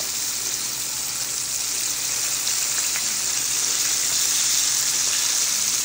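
Flour-coated chicken pieces frying in hot oil: a steady, bright sizzling hiss that gets a little louder after about two seconds.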